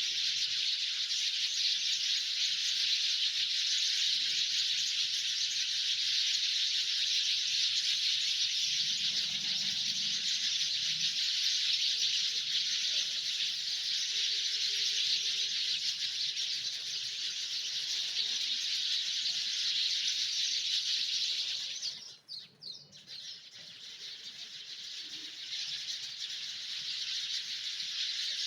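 Dense chorus of many birds chirping, a continuous high-pitched wash. It cuts out abruptly about 22 seconds in, then swells back over the next few seconds.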